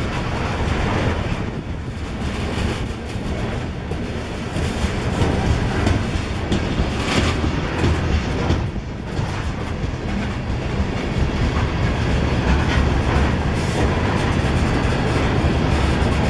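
BNSF grain train rolling past close by: a steady heavy rumble with wheels clicking over the rails.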